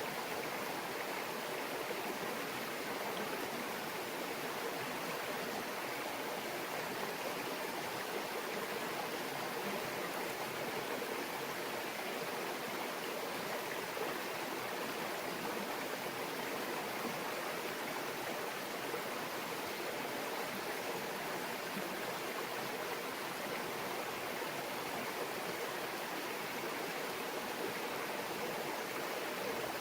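A small mountain stream babbling steadily over rocks.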